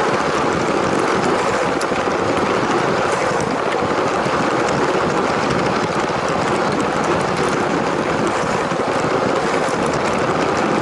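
LEGO train running along plastic track: a steady whirring rattle of its small electric motor and wheels, with faint scattered clicks, heard close up from a camera riding on the train.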